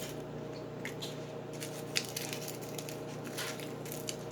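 Antacid tablets being added to a jar of baby oil and watered-down paint: sparse, irregular small crackles and ticks over a steady low hum.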